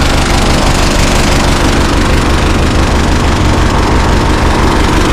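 Tractor engine running loudly with a fast, even low chugging, just started from a dead battery with a portable jump starter.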